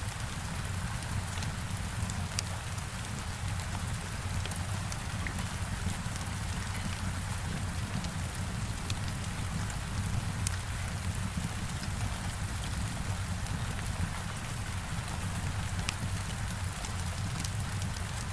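Heavy rain falling steadily against a window, an even hiss over a deep low rumble, with scattered faint sharp crackles from a fireplace fire.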